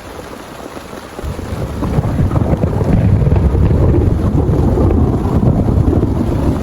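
Steady heavy rain, then about a second in a low rumble of thunder starts, swells over the next second and keeps rolling loudly.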